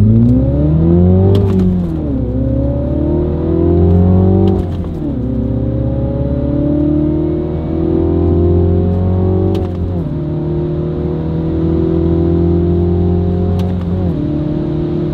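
MINI Cooper John Cooper Works 2.0-litre turbocharged four-cylinder engine, heard from inside the cabin, accelerating through the gears of its manual gearbox. The revs climb and drop at each of four upshifts, and each climb is slower than the last as the gears get taller.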